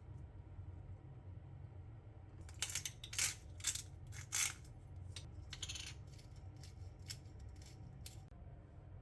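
A run of about a dozen short, sharp scraping or rustling strokes, loudest in the middle, over a steady low hum.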